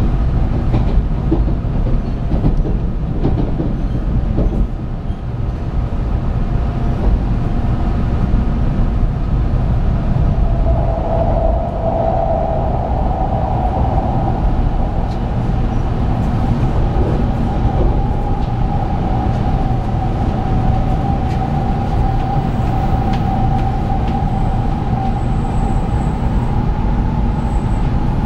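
Running noise of a 700 series 7000 'Rail Star' Shinkansen train heard from inside the passenger car: a steady low rumble of wheels on track. A steady whine comes in about ten seconds in and holds to the end.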